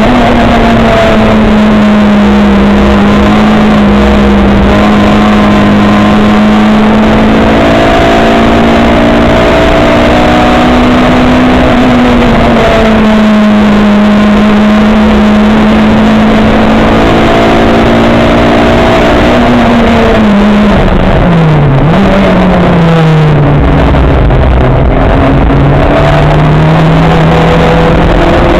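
Race car engine pulling hard at a fairly steady pitch. About three-quarters of the way through, the revs fall sharply, then climb again.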